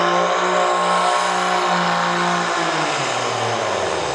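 Pulling truck's diesel engine held at full throttle with a high, steady note, then the throttle is let off about two and a half seconds in and the pitch falls away as the engine winds down.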